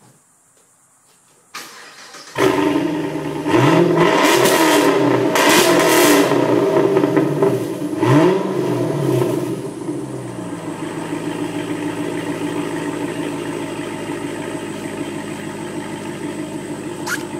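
2006 Pontiac GTO's 6.0-litre LS2 V8 with a Corsa Sport exhaust starting from cold. The starter cranks briefly, then the engine catches loudly and its speed rises and falls twice. It settles to a steady, quieter fast idle about ten seconds in.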